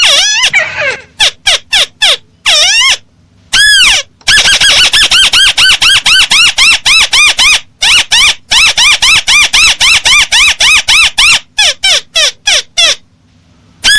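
Recorded lure call of a crake (burung tikusan): rapid series of short, sharp, arched squealing notes at about six a second, broken by short pauses, with single downward-sliding notes near the start and near the end.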